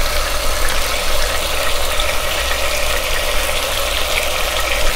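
Chicken breast pieces sizzling steadily in hot oil in a saucepan, being seared on medium heat to seal the outside.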